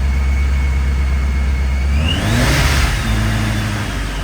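Supercharged 2017 Ford Mustang Shelby GT350's 5.2-litre flat-plane-crank V8 idling, given a quick rev about two seconds in with a whine that rises in pitch, then dropping back to idle.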